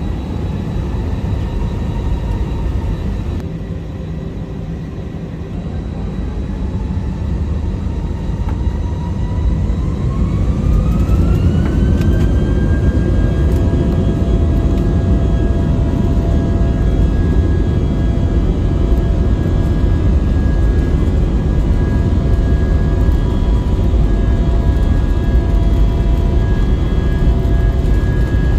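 Airbus A319 jet engines heard from inside the cabin, spooling up to takeoff thrust: a whine rises in pitch and the noise grows louder about ten seconds in, then both hold steady and loud through the takeoff roll.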